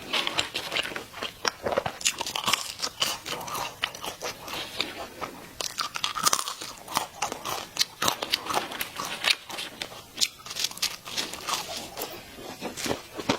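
Close-miked crunching of crispy fried chicken: repeated bites and chewing, with irregular crackly crunches throughout.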